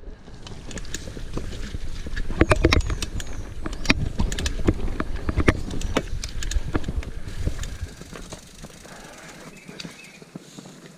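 Mountain bike being ridden over rough trail, its chain and frame rattling with sharp knocks from the wheels hitting rocks and roots over a low rumble, easing off after about eight seconds.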